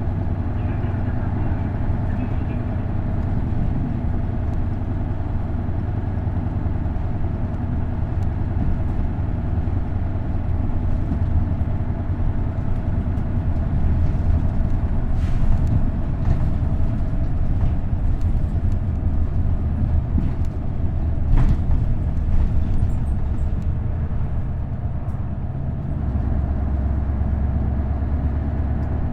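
Isuzu Erga route bus with a V8 diesel and 5-speed manual gearbox running along, its engine a steady hum, with a few sharp knocks or rattles in the middle. About 26 seconds in the engine note changes to a deeper, steady drone.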